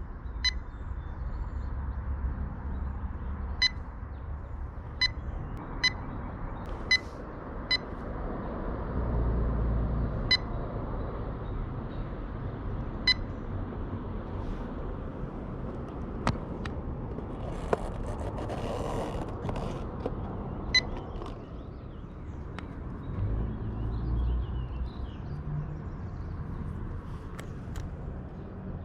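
Outdoor riverbank ambience: a steady background rush with a low rumble that swells twice. About a dozen short, high beeps or chirps are scattered irregularly through it.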